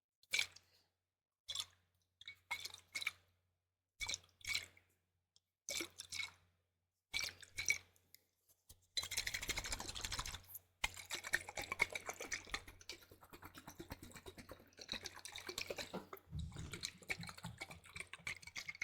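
Close-miked liquid ASMR sounds: short wet squishes, often in quick pairs, then from about nine seconds in a continuous crackling, bubbling liquid sound.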